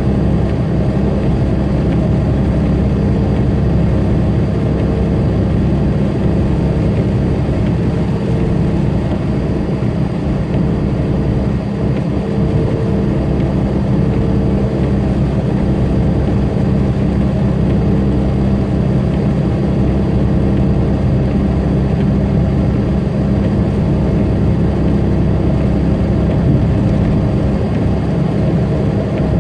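Semi truck's diesel engine running steadily at highway speed, heard inside the cab as a low drone mixed with road noise.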